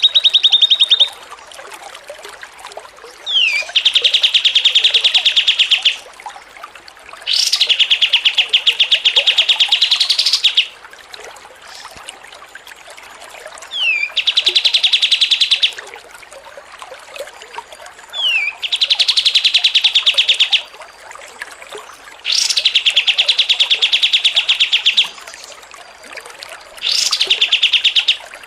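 A songbird singing a series of rapid, buzzy trills, each lasting two to three seconds and most opening with a quick sliding note, repeated about seven times with short pauses between.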